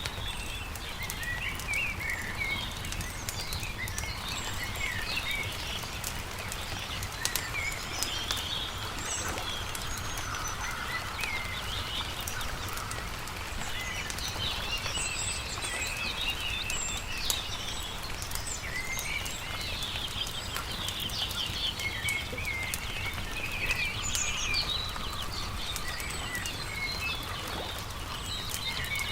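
Small birds chirping and singing in quick, warbling phrases, over the scattered pops and crackles of a wood campfire, with a steady low rumble underneath.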